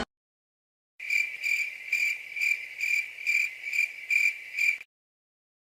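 Cricket chirping sound effect: a high, even chirp repeated about nine times at roughly two a second, starting about a second in and stopping near the end.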